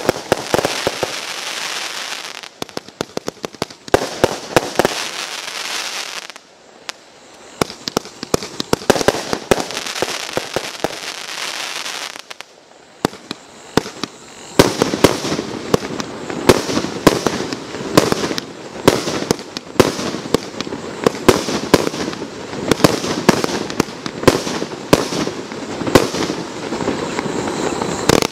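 Panda GP5024 'Fire Dragon' 126-shot compound firework battery (20–30 mm calibre) firing: shots launch and burst in rapid succession, with two brief quieter stretches about a quarter and half way through before the shots come thick again.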